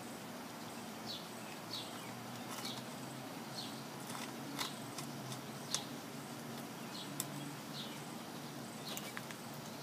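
A bird chirping over and over, short falling chirps about once or twice a second, over a low steady hum, with a few faint sharp clicks.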